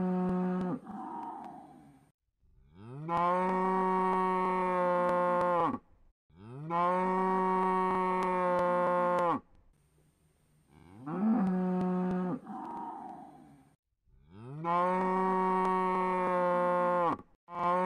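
Cow mooing over and over: three long moos of about three seconds each, rising in pitch at the start and then held steady, with shorter moos that trail off at the start and about eleven seconds in. The same run of calls repeats.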